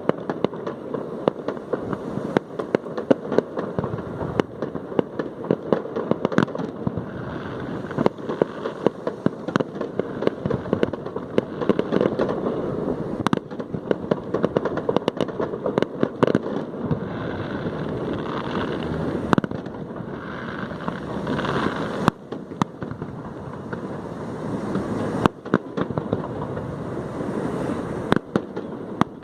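Aerial fireworks display going off: a dense, continuous stream of rapid bangs and crackling shell bursts. A few louder bangs stand out about two-thirds of the way through.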